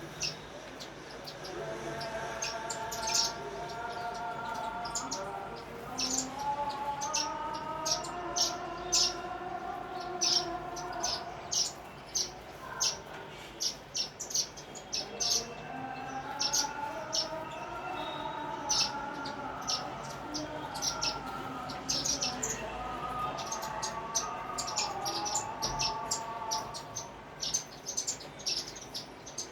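Sparrows chirping in many short, sharp chirps in quick irregular succession. A lower, wavering background sound runs under them in two long stretches.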